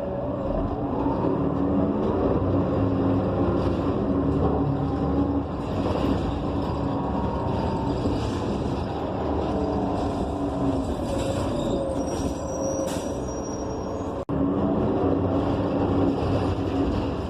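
City bus running, heard from inside: the Cummins Westport ISL G natural-gas engine drones steadily under a whine from the Allison automatic transmission that rises and falls in pitch as the bus speeds up and slows. The sound cuts out for an instant near the end.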